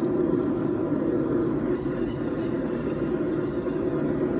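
Forge running with a steady, even rushing noise, low in pitch and unchanging, with no hammer blows.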